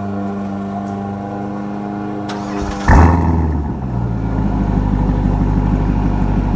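Corvette Stingray's 6.2-litre V8 cold-starting: about three seconds in it fires with a loud flare of revs, then settles into a steady, rumbling high idle. Steady background music plays before it catches.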